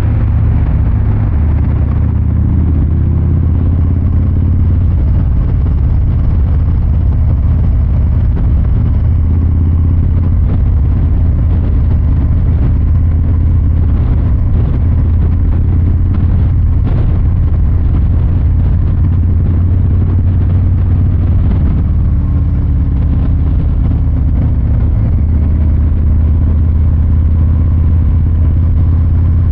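Harley-Davidson Fat Boy 114's Milwaukee-Eight 114 V-twin exhaust rumbling while riding at easy speeds. The pitch rises and falls a little a few times as the revs change.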